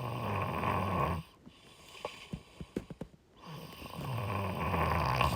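A person's breath, rasping with a low buzz: two long breaths, the first lasting about a second and the second starting about three and a half seconds in.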